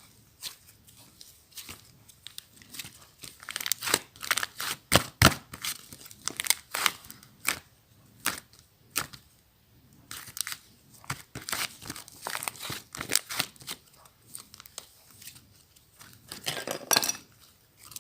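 Slime being squished and stretched by hand, making irregular sharp pops and clicks in quick clusters, with a longer squelching burst near the end.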